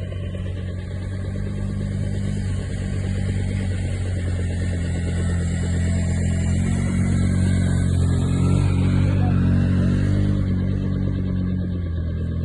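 Helicopter rotor and turbine running in flight, a steady low beating drone that grows louder to a peak about three quarters of the way through, then eases slightly.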